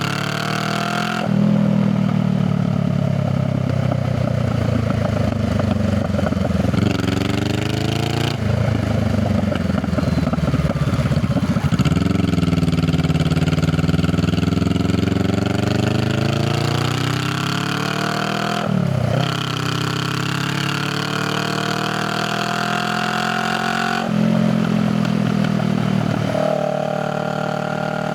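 Honda Rebel 500's parallel-twin engine and exhaust under way. The revs climb, drop at each gear change, and climb again several times. About a third of the way in the revs fall as the bike slows, then build back up.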